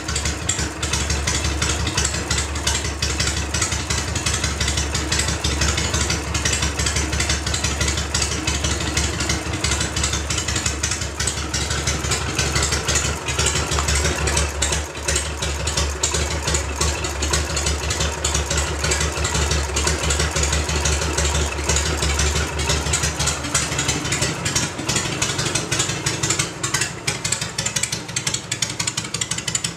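Harley-Davidson Shovelhead V-twin idling steadily, its open BDL belt primary drive and clutch spinning uncovered and adding mechanical noise to the engine sound, a noise the owner is unsure is normal.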